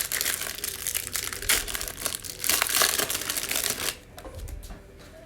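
Packaging of a trading-card hanger box crinkling and tearing as it is opened by hand, in a busy stretch of irregular crackles that dies down about four seconds in.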